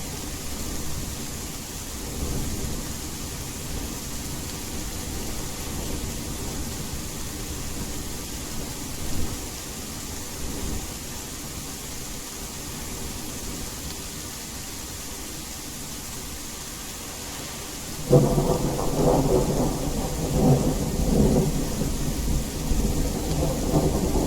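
Steady rain with a low rumble of thunder underneath. About three-quarters of the way through, a loud thunderclap breaks in suddenly and keeps rumbling.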